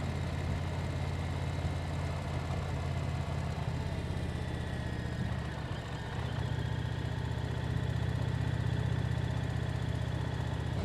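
Motorcycle engine running steadily at a low pitch, easing off briefly about five to six seconds in.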